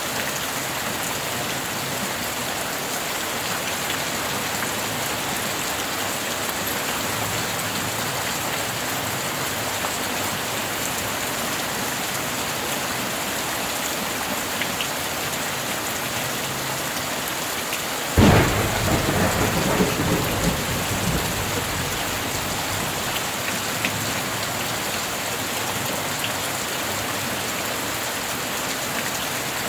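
Steady rain falling, with a sudden thunderclap about two-thirds of the way through that rumbles away over a few seconds.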